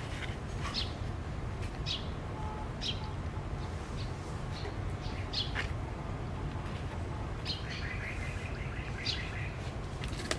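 Small birds chirping: short, high chirps scattered through, with a brief run of calls near the end, over a steady low background rumble.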